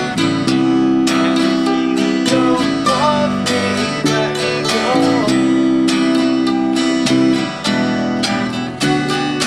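Acoustic guitar strummed in a steady rhythm, with mandolin and bass, in an instrumental passage of an acoustic folk-rock song with no singing.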